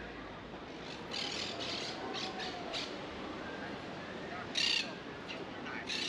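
Harsh bird squawks: a run of short calls in the first half, then a louder single squawk about four and a half seconds in, over the steady murmur of a busy street.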